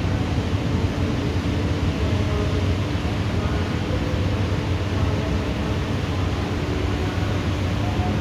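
Rain falling steadily, a continuous even hiss with no thunderclap in it.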